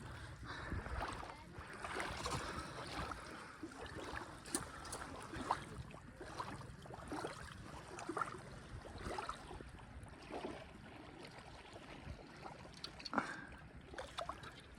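Small waves lapping and splashing irregularly at the lake's edge, with wind rumbling on the microphone.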